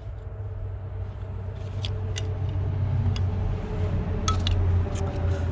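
Steady low rumble of a vehicle's engine nearby, growing slightly louder, with several light metallic clicks in the second half, typical of tools and parts being handled.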